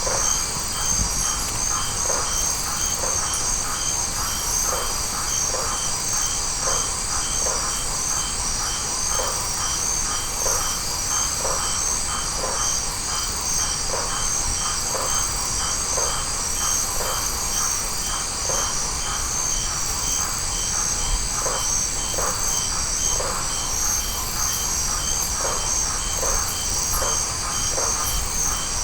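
Night-time tropical insect chorus: crickets and other insects trilling steadily in a high, dense layer, with one insect pulsing a regular note about twice a second. Shorter, lower calls repeat about once a second over it.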